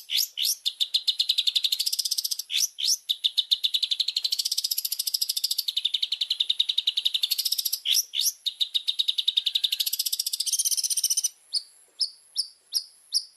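Long-tailed shrike (cendet) in full song: a fast, unbroken chatter of very rapid high notes, cut through now and then by sharp downward-sweeping calls. Near the end it changes to slower separate notes, about three a second.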